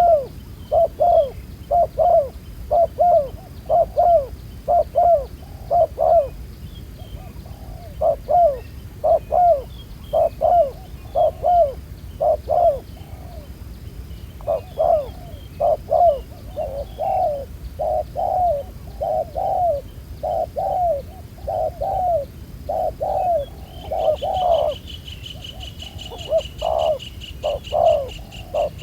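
Spotted doves cooing in quick runs of short, repeated coos, about two a second, the bowing 'gù' call that trappers listen for in a decoy and a wild dove. About 24 seconds in, a high, steady buzzing trill joins the cooing.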